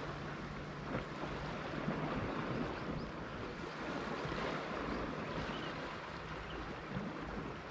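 Sea waves washing onto the shore: a steady rushing that swells and eases, with a few faint clicks.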